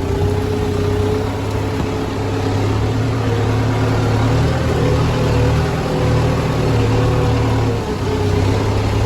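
Tractor engine running steadily, its pitch rising and falling slightly, with a brief dip in level near the end.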